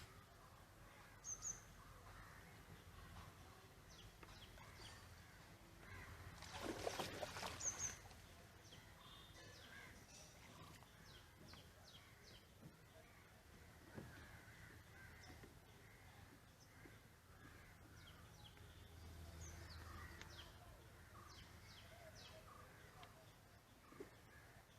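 Near silence: quiet riverside ambience with faint bird calls, including a louder, harsher call about seven seconds in.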